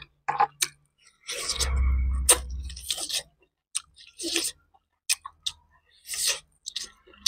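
Close-miked eating sounds: biting and chewing poached chicken meat off the bone, in irregular bursts with wet mouth clicks and smacks.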